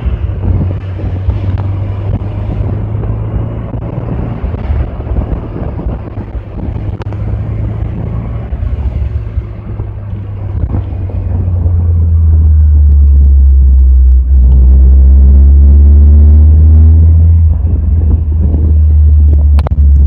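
1985 Alfa Romeo Spider's twin-cam four-cylinder engine running while the car drives, heard from the driver's seat as a steady low rumble. It grows much louder about twelve seconds in, with its pitch rising a little as the car accelerates.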